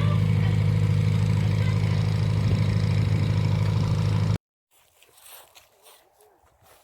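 Vehicle engine running steadily with a loud, low hum, which cuts off abruptly about four seconds in; after that only faint rustles and a short click.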